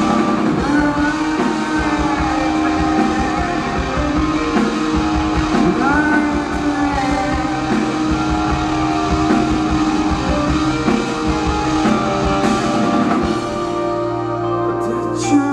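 Live rock band playing with electric guitars, bass and a drum kit. Near the end the drum hits thin out, leaving sustained guitar and bass tones.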